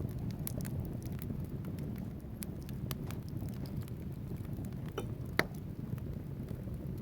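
Wood logs burning in a fireplace: a steady low rumble of flame with scattered crackles, and one louder pop about five seconds in.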